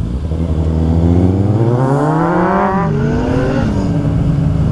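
Kawasaki Z800 inline-four motorcycle accelerating hard through an Ixil exhaust with its dB killer removed, so it runs very loud. The pitch climbs for nearly three seconds, drops at an upshift, climbs briefly and drops at a second upshift, then holds steady.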